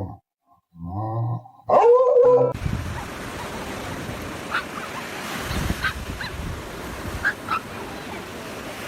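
A dog gives three short pitched calls, barking and howling, the last one loud and drawn out. About two and a half seconds in it cuts to a steady rushing noise with a few faint, short chirps.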